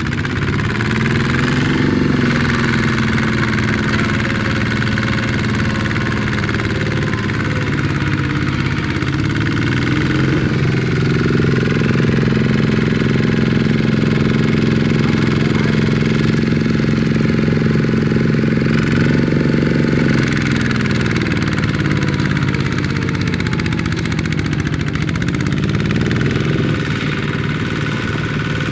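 Small Kubota tractor engine running steadily under load. Its speed sags and picks up again several times: a rise about two seconds in, dips around ten, twenty-one and twenty-four seconds in, then a rise near the end.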